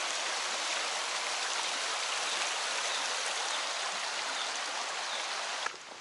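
Mountain stream rushing over rocks, a steady dense watery noise that cuts off abruptly near the end.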